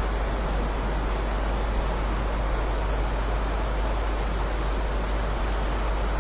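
Steady heavy rain, an even hiss with no single drops, thunder or changes standing out.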